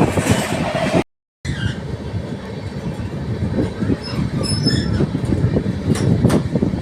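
Passenger train rumbling along the rails, with faint high-pitched wheel squeals near the middle and a couple of sharp clicks toward the end. The sound drops to a brief silent gap about a second in.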